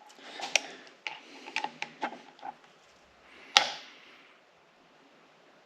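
Torque wrench ratcheting in a series of short clicks on a Subaru EJ25 cylinder head bolt, being tightened to 51 foot-pounds in the second pass of the torque sequence, then one louder, sharp click about three and a half seconds in.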